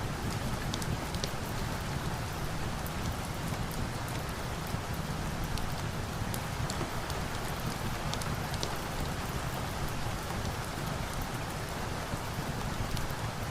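Steady rain falling, with a low rumble underneath and scattered sharp ticks through it.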